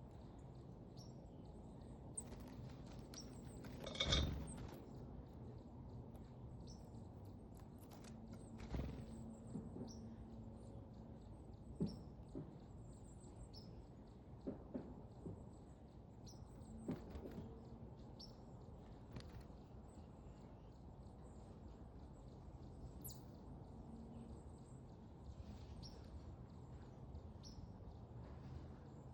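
Faint backyard ambience at a bird feeder: small birds give scattered short high chirps over a low steady background rumble. Several brief knocks sound at irregular intervals, the loudest about four seconds in.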